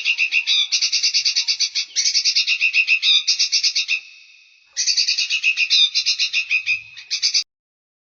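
Songbird singing fast, high chattering trills of about ten notes a second, in runs of about a second. There is a short break about four seconds in, and the song stops near the end.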